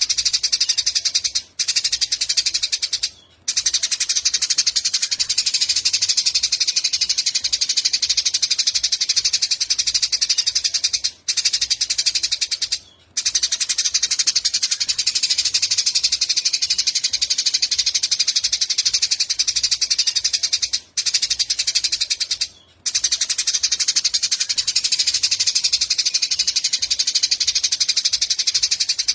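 Eurasian tree sparrows chirping in a dense, fast, unbroken chatter of high chirps. Brief silent drop-outs come in pairs about every ten seconds.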